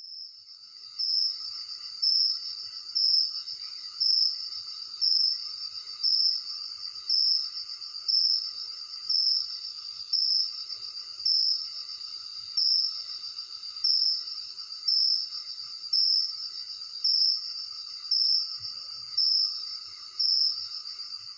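Crickets chirping: a steady high trill with a louder pulse about once a second, and fainter insect calls lower beneath it.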